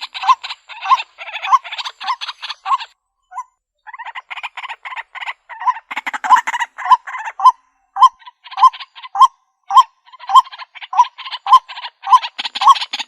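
White-breasted waterhen calling: loud croaking notes, roughly one and a half a second, over a dense rapid chatter, with a short lull about three seconds in before the calling picks up again. This is a lure call recording, played to draw waterhens in.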